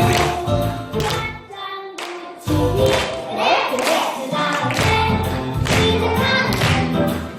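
A group of seven-year-old children singing a song together over backing music. The music drops off briefly about two seconds in, then comes back in full.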